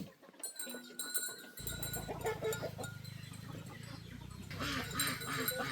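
Farm animals calling in short repeated cries, over a steady low hum that starts about a second and a half in.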